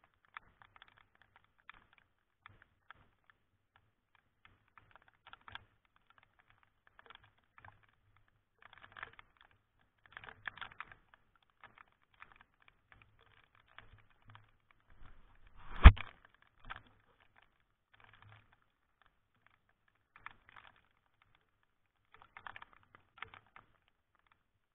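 Raindrops tapping irregularly on the camera, sometimes in quick clusters, with one heavy thump about sixteen seconds in.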